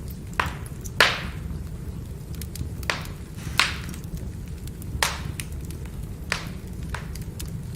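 Firewood burning: sharp crackles and pops, about seven in all with the loudest about a second in, over a steady low rumble of the fire.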